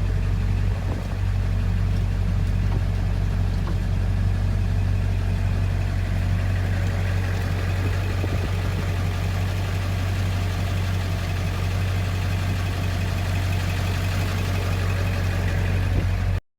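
Ford Excursion's 7.3 L V8 turbo diesel idling steadily, with a deep, even low hum; the sound cuts off abruptly near the end.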